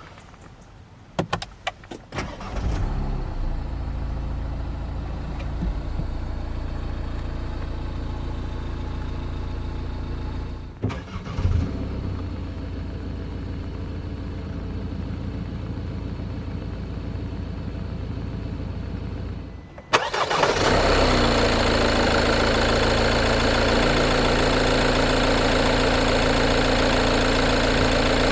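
A 2021 Renault Trafic's 2.0-litre twin-turbo diesel four-cylinder starts with a few clicks and a short crank. It catches about two seconds in and settles into a steady diesel idle. About two-thirds of the way in, the idle becomes much louder and fuller.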